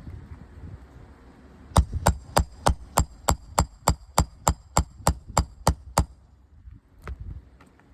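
About fifteen quick, evenly spaced hammer blows, roughly three a second, on a roof snake slid under an asphalt shingle to pull a roofing nail. Each blow carries a metallic ring. One weaker knock follows about a second after the run.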